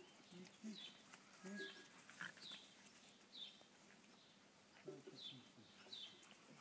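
A small bird chirping faintly: short high falling chirps repeated about once a second. A few soft low grunts come from the puppies as they play.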